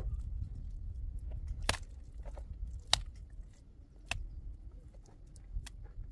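Four sharp knocks or cracks, about a second and a half apart, over a steady low rumble.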